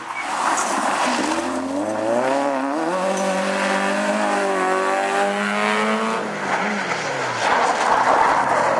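Rally car engine revving hard, its pitch climbing and dropping again and again as it changes gear. A rushing noise of tyres on the stage surface swells about a second in and again near the end.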